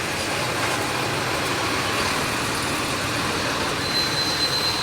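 Heavy diesel machinery running steadily, the engines of ore dump trucks and excavators, with a faint thin high whine near the end.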